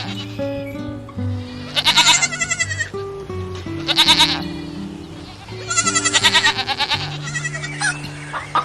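Goat bleating three times, each a wavering, quavering call, over steady background music.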